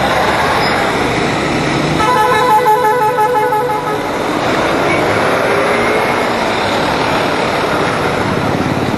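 Steady riding noise of a 200cc motorcycle on a highway: wind rush, engine and traffic. About two seconds in, a vehicle horn sounds for about two seconds in quick pulses.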